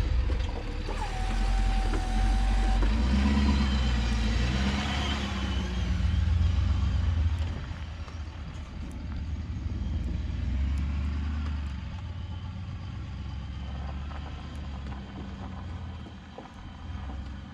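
Ford F350 pickup truck running while plowing snow, a deep engine rumble that eases off after about seven seconds. A brief steady whine sounds about a second in.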